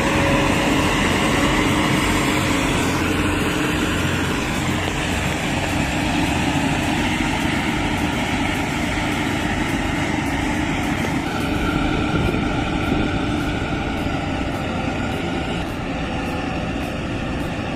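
Tractor engine running steadily under heavy load while it pulls a combine, its pitch holding level and shifting slightly partway through.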